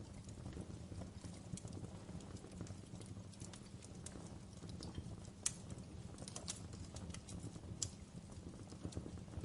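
Wood fire burning in a fireplace: a low steady rumble of the flames with irregular crackles and pops, one sharp pop standing out about halfway through.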